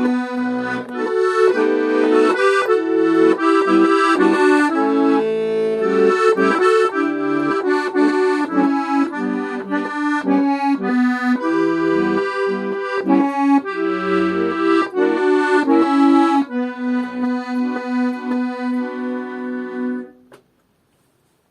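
Accordion playing a song accompaniment in B minor, with melody chords over a rhythmic bass. It ends on a long held chord that stops about a second before the end.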